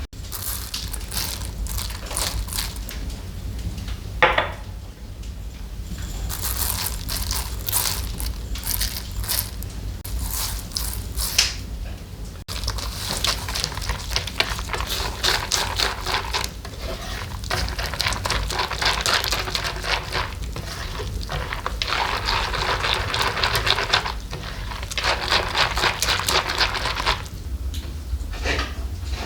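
Kitchen handling noises: irregular scraping, rustling and crackling with occasional clinks of dishes, over a low steady hum.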